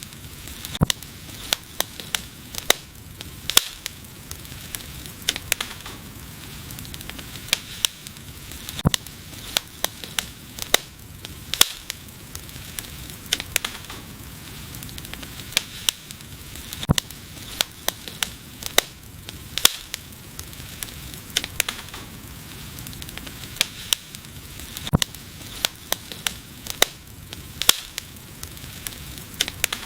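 Wood fire crackling: irregular sharp pops and snaps, several a second at times, over a steady soft hiss of burning.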